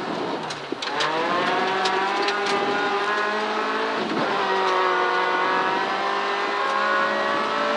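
Ford Fiesta ST rally car's engine heard from inside the cabin, accelerating hard down a gravel straight: the pitch climbs, drops at an upshift about a second in and again about four seconds in, then holds high. Sharp ticks of gravel stones hitting the car in the first few seconds.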